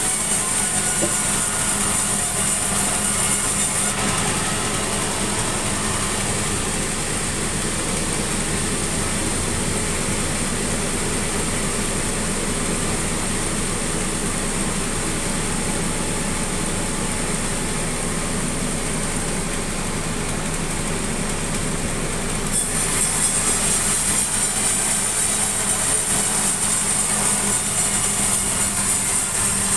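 Engine-driven sawmill saw running steadily through sengon timber. A high hiss is strong at first, eases about four seconds in and comes back strongly at about twenty-two seconds.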